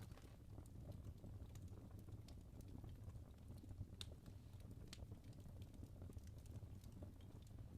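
Logs burning in a fireplace: quiet, soft crackling with scattered sharp pops, the sharpest about four and five seconds in, over a low steady rumble.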